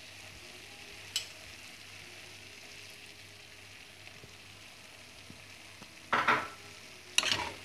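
Moth bean sprout usal sizzling gently in a pan, a faint steady hiss of the dried-down curry frying in oil, with one click about a second in. Near the end come two short, louder sounds as a wooden spoon begins to stir the pan.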